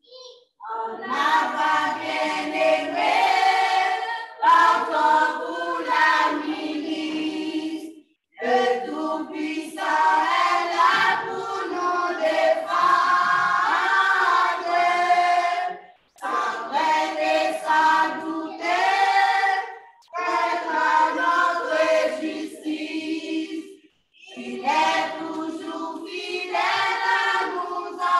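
A vocal group sings a hymn unaccompanied in several-part harmony. The phrases break off with short silent pauses every few seconds.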